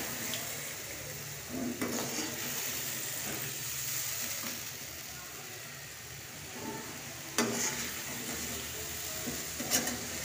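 Chicken pieces and ginger-garlic paste sizzling steadily in hot oil in a karahi while a steel slotted spatula stirs them, knocking against the pan a few times.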